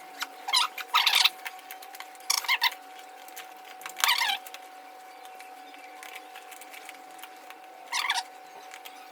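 A fabric Pikachu-skin cover being pulled and stretched over a motorcycle helmet, making short rustling, scraping bursts several times. A faint steady whine runs underneath.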